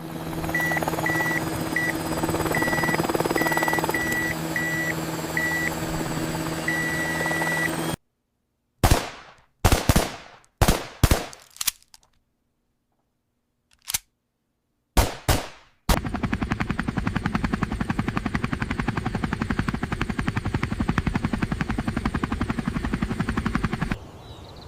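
Battle sound effects of gunfire. A loud mechanical din with short repeated beeps gives way about eight seconds in to single gunshots separated by dead silence. From about the middle to near the end there is rapid machine-gun fire.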